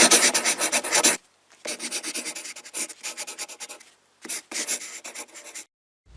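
Rapid scratching, rubbing noise in several short bursts separated by dead-silent gaps.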